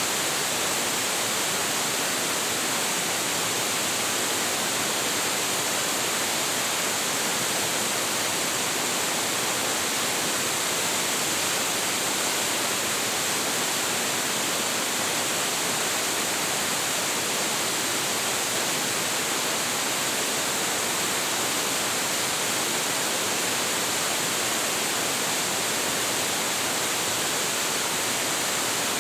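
A tall waterfall with heavy flow pouring steadily: a constant, even rush of falling water, bright and hissy, that never changes.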